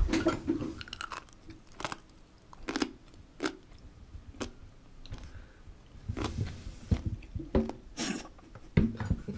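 Close-miked chewing of crunchy seasoned dried radish strips (mumallaengi): crisp, separate crunches coming irregularly, roughly one a second.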